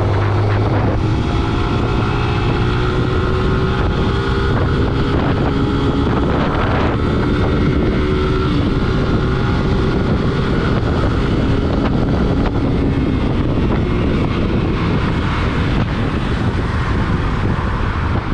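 Vehicle on the move: a steady engine drone buried under heavy wind noise on the microphone, with a faint hum that drifts slowly in pitch.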